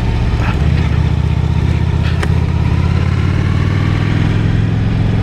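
Honda Shadow 750's liquid-cooled V-twin engine running steadily while cruising, with wind noise on the helmet microphone and a couple of brief clicks.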